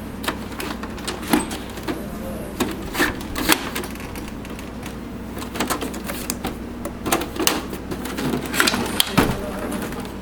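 Irregular clicks and knocks of an HP OfficeJet Pro 8600 inkjet printer's plastic parts being handled and pried apart during disassembly, over a steady low hum.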